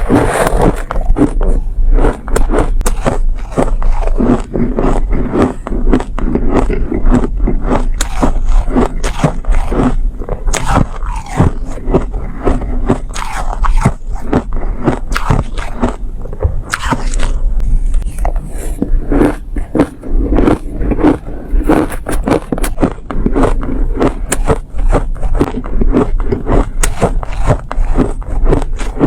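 Close-miked bites and chewing of refrozen soft ice: dense, continuous sandy crunches in quick succession, with slightly squeaky bites.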